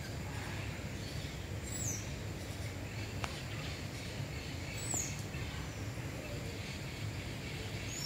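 Steady low background hum with two short, high, falling bird calls, one about two seconds in and another about five seconds in.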